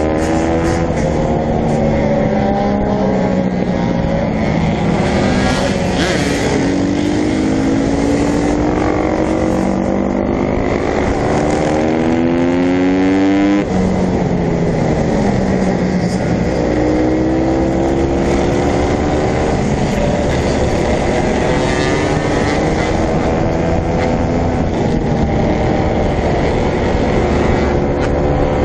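Dirt bike engines running and revving, their pitch climbing and dropping again and again as the throttle is worked. About halfway through, the sound cuts abruptly to another stretch of the same engine noise.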